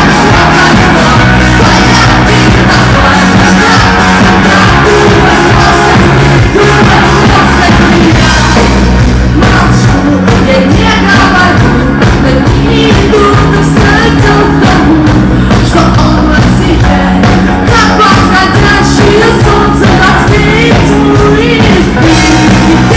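Live rock-reggae band playing with an orchestra, with a woman singing the lead vocal over a steady, loud mix.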